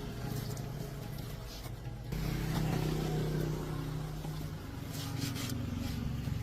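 A vehicle engine running, growing louder and fuller about two seconds in as it picks up, with faint clicks over it.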